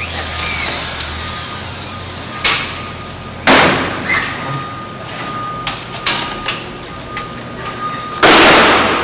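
Pallet repair work: a run of sharp knocks and bangs at irregular intervals, about eight in all, over a faint steady machine whine, with a longer loud burst of noise near the end.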